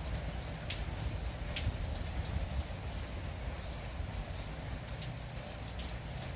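Light, steady drizzle with scattered individual drops ticking onto nearby surfaces over a low, even rumble.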